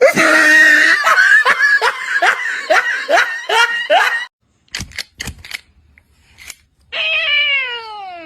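A person laughing hard in quick repeated bursts for about four seconds. After a pause come a few sharp clicks, and near the end a long tone that slides steadily down in pitch.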